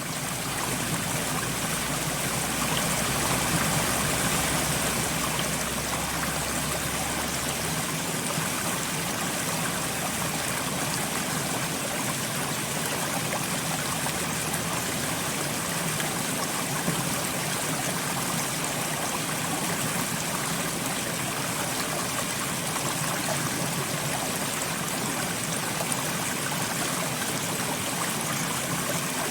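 Steady, even rush of water, like soft rain or a flowing stream, with no single drops or splashes standing out. A low rumble underneath fades out about eight seconds in.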